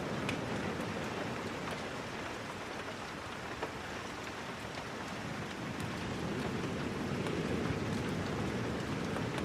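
Steady rain falling, an even hiss with scattered small ticks of drops and a slight swell in level past the middle.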